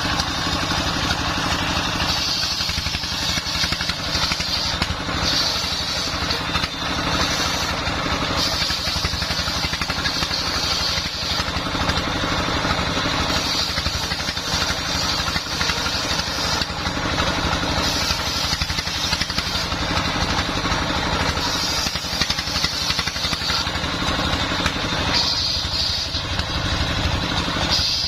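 Dongfeng 24 hp single-cylinder diesel engine running steadily, driving a home-built circular saw. A higher rushing hiss swells and fades every few seconds as the blade cuts through the wood.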